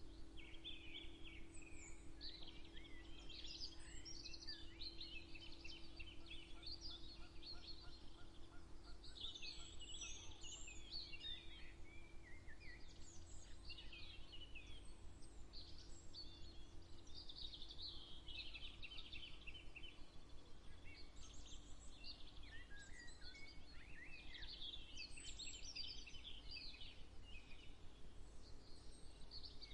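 Several songbirds singing at once in many short, overlapping phrases, a morning bird chorus, over a low steady rumble. A faint steady hum underneath fades out about two thirds of the way through.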